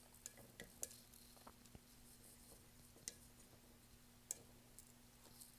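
Faint, sparse sharp clicks of a paintbrush knocking against a rinse-water cup, about four in all, over a low steady electrical hum.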